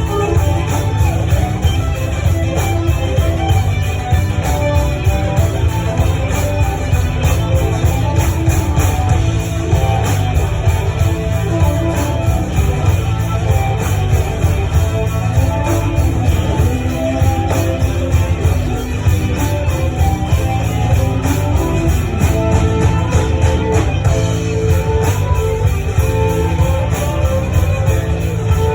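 A live folk-rock band playing an instrumental passage, led by guitars over bass and drums, with no singing.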